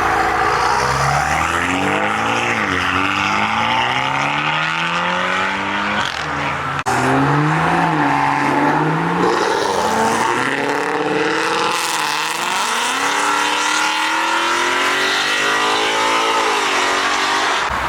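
Sports car engines accelerating hard, pulling up through the gears. The pitch climbs, then drops back at each gear change several times.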